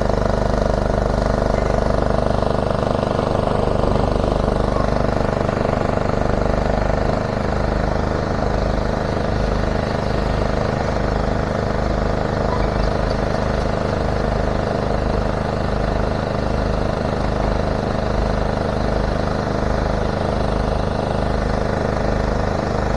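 Heavy demolition-site machinery running steadily: the even drone and low throb of diesel plant engines, with no clear bangs or impacts.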